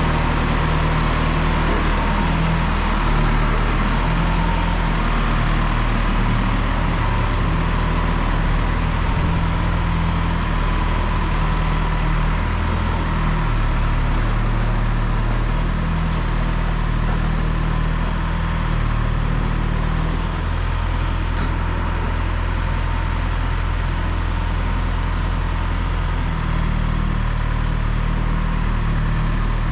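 1974 John Deere 2030 tractor engine running steadily at work, a low continuous drone whose pitch shifts slightly as the load changes.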